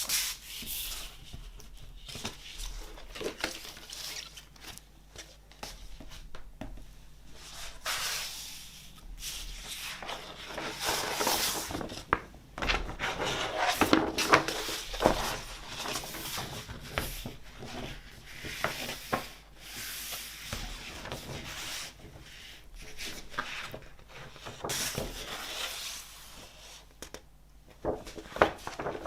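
Hands handling a vinyl LP's cardboard and paper sleeves: rubbing, sliding and rustling with small clicks. The handling gets louder in the middle, and there are a few sharp taps near the end.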